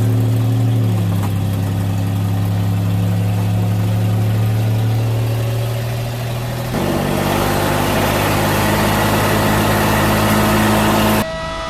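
GMC 702 cubic-inch V12 engine running with a steady low drone. About seven seconds in the note drops slightly and turns harsher.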